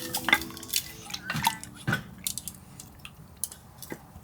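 Irregular clicks, taps and clinks of cooking utensils and dishes being handled, with a few drip-like small sounds.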